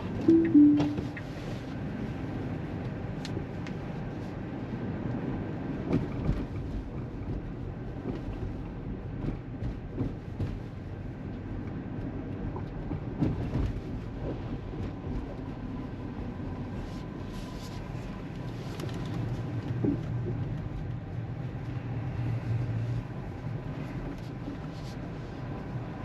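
Tesla Model 3 cabin noise while driving slowly: steady tyre and road rumble with no engine sound, and scattered light knocks. Just after the start, the car gives a short two-note falling chime.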